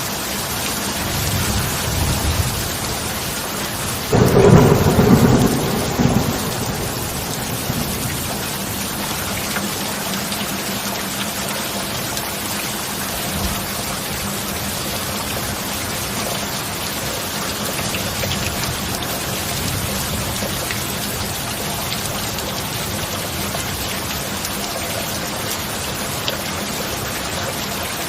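Steady heavy rain with thunder. A low rumble about a second in builds to a loud crack-and-rumble of thunder around four seconds in, which fades over about two seconds, and then the rain carries on alone.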